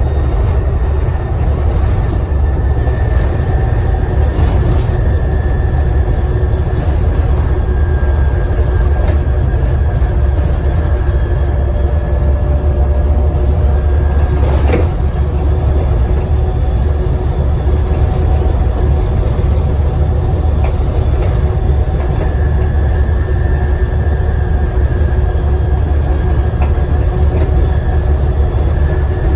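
Volvo B7TL double-decker bus's turbocharged six-cylinder diesel running under way, heard from inside the bus as a steady low rumble with a high turbo whistle that fades out around the middle and comes back near the end. One sharp knock halfway through.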